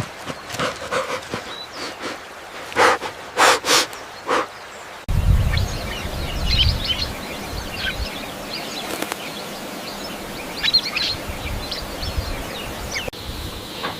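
Outdoor ambience: a few sharp knocks, then after a cut, small birds chirping over a low rumble.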